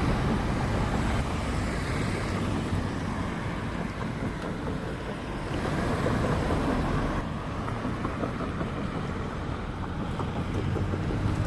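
Road traffic passing: a steady rumble and hiss of vehicles going by.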